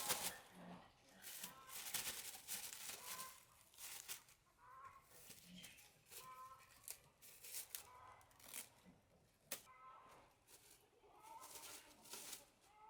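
Chickens clucking in short, quiet calls, with scattered clicks and rustles throughout.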